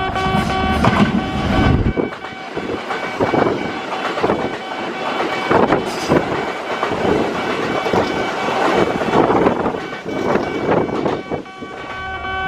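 Background guitar music for about the first two seconds, then a Kintetsu train passing close by, its wheels clattering over the rail joints in an uneven run of knocks that fades near the end.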